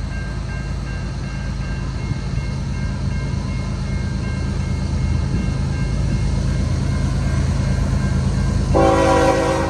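Rumble of a CN freight train that grows slowly louder as it nears. Near the end the lead locomotive's K5HL air horn sounds one short blast that cuts off sharply.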